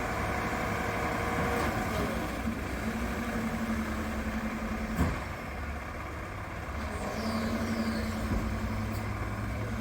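Recycling truck's engine running at idle while the packer compacts the load in its compartment, with a steady drone coming in over the rumble twice. There is one sharp knock about halfway through.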